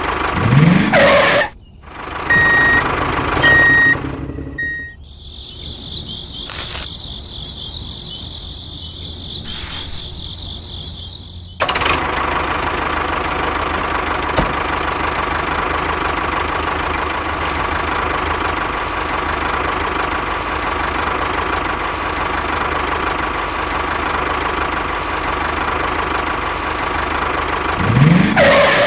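Crickets chirping, then from about halfway through a small motor running with a steady hum. A rising whoosh and a few short beeps come near the start.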